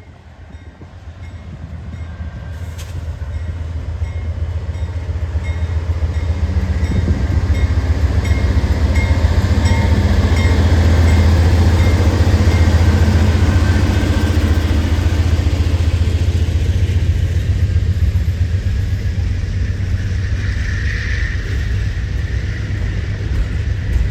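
A train rolling past, building up over about ten seconds and then running on steadily, with strong wind buffeting the microphone.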